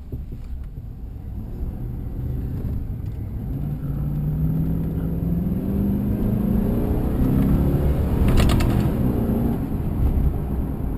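Chevy 2500HD pickup's 6.0-litre V8 engine accelerating, heard from inside the cab. The engine note rises steadily in pitch and loudness for several seconds, then drops back about eight seconds in, with a brief rattle at that moment.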